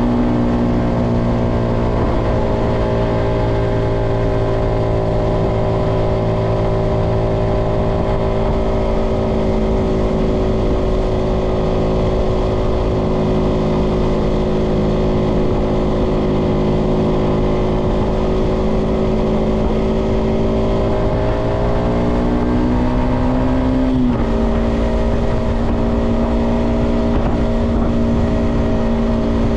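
Yamaha XSR125 motorcycle's single-cylinder four-stroke engine pulling steadily on the road. Its pitch sags slightly, climbs for a couple of seconds as it accelerates, then drops abruptly at an upshift late on, with wind rushing over the microphone.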